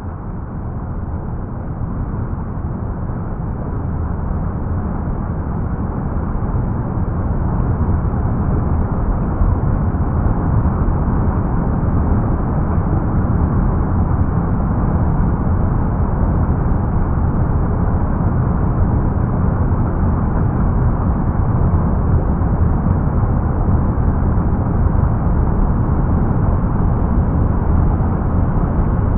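Steady, deep rush of water, swelling over the first eight seconds or so and then holding at an even level.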